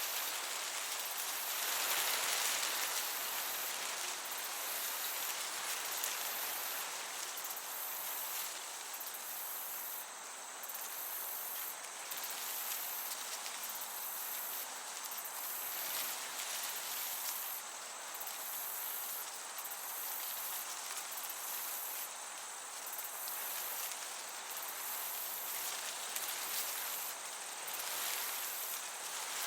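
Crickets chirping in a continuous high-pitched trill that breaks off briefly every second or two, over a steady gentle breeze.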